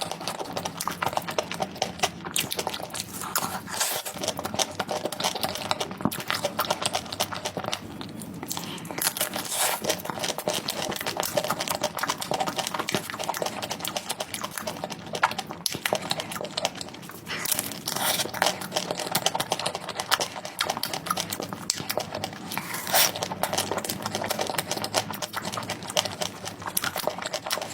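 Close-miked mukbang eating sounds: chewing and crunching on sweets, a dense run of small wet and crunchy clicks.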